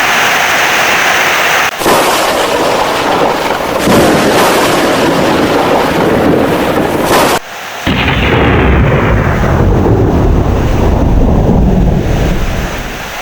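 Heavy rain with loud thunder, a long low rumble building from about eight seconds in and easing off near the end. The sound breaks off and starts again abruptly a few times.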